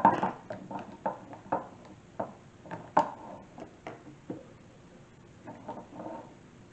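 Ice-pop mold lids being popped off and handled: a string of short, sharp clicks and knocks that thins out after about four seconds.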